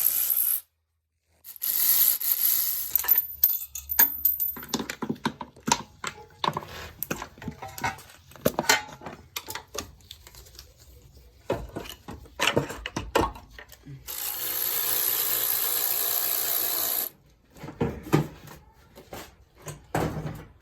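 Metal hand tools clinking, knocking and scraping on an engine being taken apart, with irregular clicks and clanks throughout and one steady noisy run of about three seconds in the second half.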